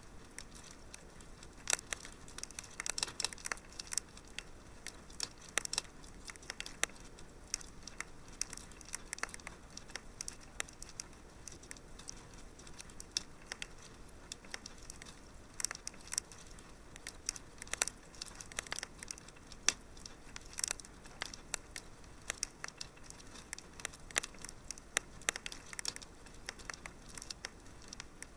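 Wood fire burning in a fireplace, crackling with many small irregular pops and snaps over a faint steady hiss.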